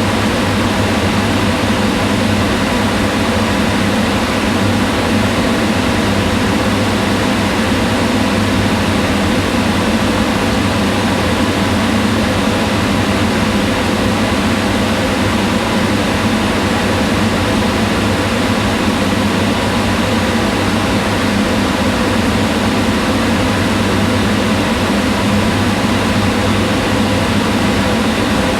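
Kitchen range hood exhaust fan running steadily: a constant hum with airy rushing noise, unchanging throughout.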